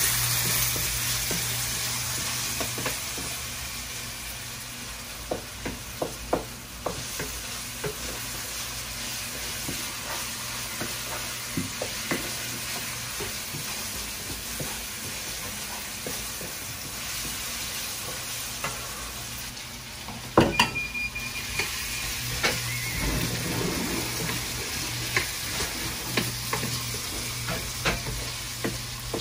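Potatoes sizzling as they fry in a pan, stirred with a utensil that scrapes and taps against the pan now and then, with a louder clatter about twenty seconds in.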